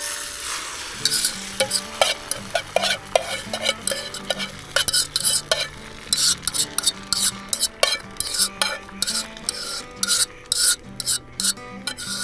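Food sizzling in a pan while a utensil stirs and scrapes it, with many quick, irregular clicks of the utensil against the pan.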